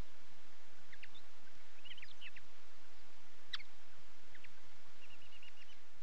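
Small songbirds chirping: scattered short, high chirps and one quick run of chirps near the end, over a steady hiss of background noise.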